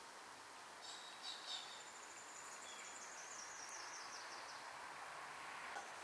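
Faint, high, thin bird calls over a steady outdoor hiss: a quick cluster of chirps about a second in, then a run of notes that step down in pitch over the next two seconds.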